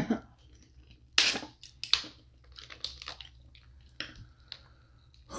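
Close-miked eating sounds from a seafood boil: wet chewing with scattered sharp crunches and clicks, two louder crunches about a second and two seconds in.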